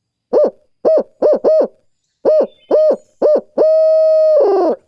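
Brute Hoot owl call, a hand-blown owl hooter, imitating a barred owl's "who cooks for you, who cooks for you all" cadence. Four short hoots, a pause, three more short hoots, then a long held final note that falls away at the end.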